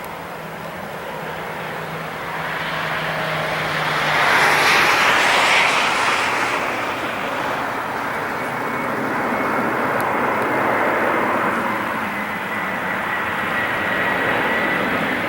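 Airbus A340-300 jet airliner landing, its four CFM56 engines heard as a rushing jet noise that swells to its loudest about four to six seconds in as it passes. The noise then eases into a steady rush with a thin high whine.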